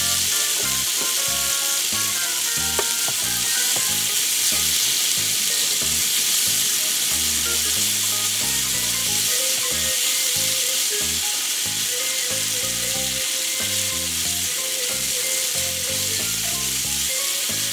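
Scallops and asparagus sizzling in a nonstick frying pan while a spatula stirs and turns them. There is a steady frying hiss with irregular scraping and knocking from the spatula against the pan.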